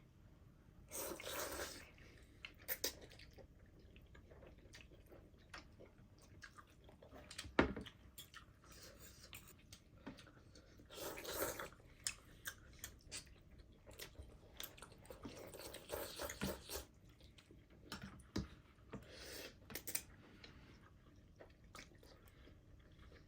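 People eating thukpa noodle soup: chewing and eating noises, with several short noisy bursts and scattered light clicks.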